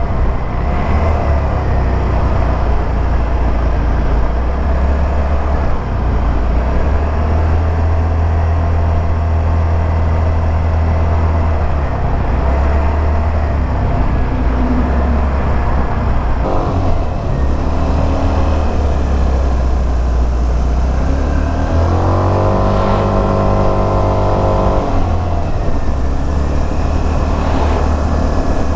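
A 2022 Suzuki Burgman 200 scooter's single-cylinder engine running on the road, a steady low rumble mixed with road and wind noise. About 22 seconds in, an engine note rises in pitch and holds for about three seconds, then drops away.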